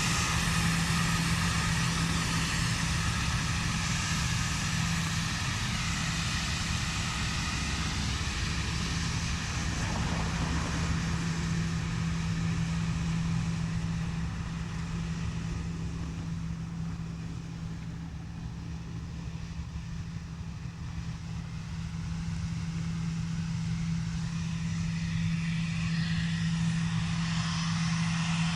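Airliner engine noise at an airport, with a steady low hum throughout. The noise fades in the middle and swells again near the end.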